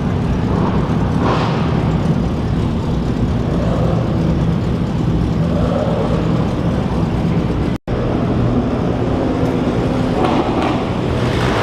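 Car engines running at low speed in a steady loud drone as the show cars are driven out. The sound cuts out for an instant about eight seconds in.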